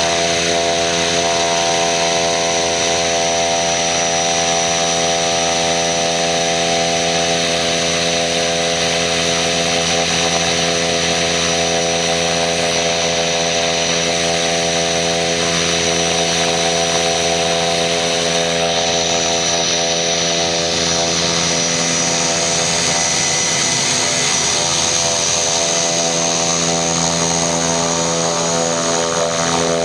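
Turbine aircraft running steadily at close range: a continuous buzzing drone made of many even tones over a high hiss. The tones waver a little in pitch in the last few seconds.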